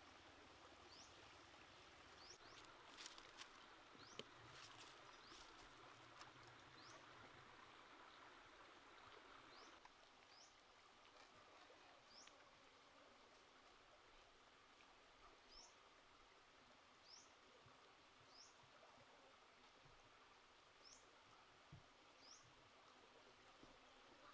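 Faint outdoor ambience: a bird gives a short, high, rising chirp every second or two over the low steady hiss of a creek. A few soft clicks come about three to four seconds in.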